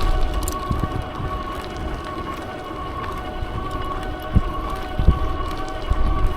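Wind buffeting the microphone while cycling, in uneven low gusts, over a steady whine of several held tones that do not change in pitch.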